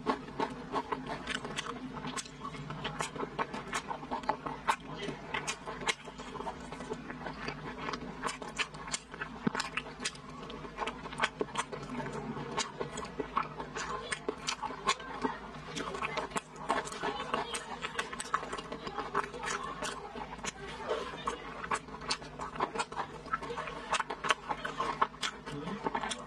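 Close-miked chewing of soft, fatty red-braised pork belly: wet, sticky mouth smacks and squelches, many small clicks a second, without pause.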